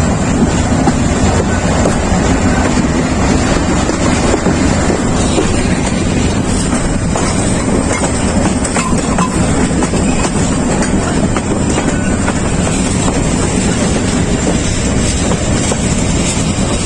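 Passenger train running along the track, heard from an open coach window: a steady, loud rumble of the moving train with wind buffeting the microphone.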